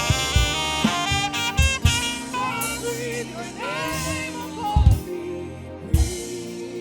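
Saxophone playing a melodic line of quick note runs and held, bending notes over a live band, with drum hits and a bass line underneath.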